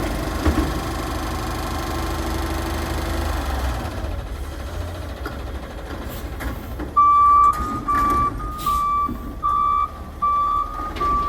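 Garbage truck's diesel engine running with a steady hum that fades out after about three seconds. About seven seconds in, its reversing alarm starts beeping, a single-pitched beep roughly every 0.7 seconds.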